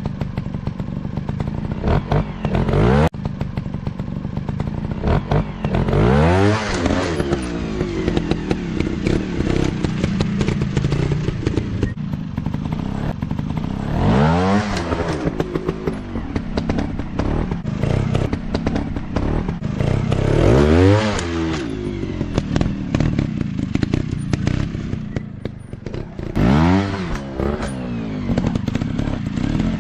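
Dirt bike engines running, revved up and let back down about four times, with clattering and knocks from the bikes working over rough ground.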